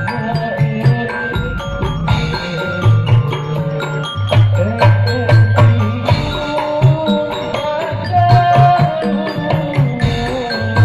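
Hadrah music: hand drums, including kendang, playing a fast, busy rhythm with deep drum strokes under a melody line.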